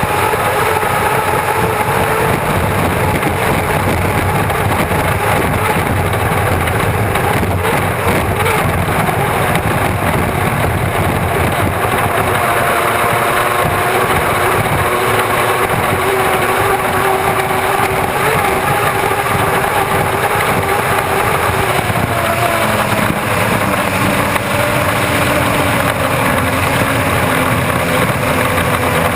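Unlimited hydroplane's turbine engine running loud and steady, mixed with rushing wind and water noise. About three quarters of the way through, its tones drop in pitch as the engine winds down.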